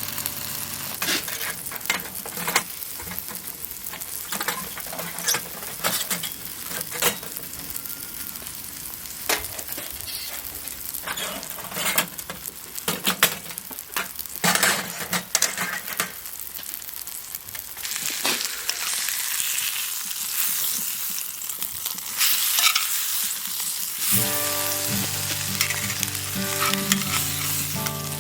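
Food sizzling over a charcoal shichirin grill, a steady hiss broken by many sharp pops and crackles. Music comes in near the end.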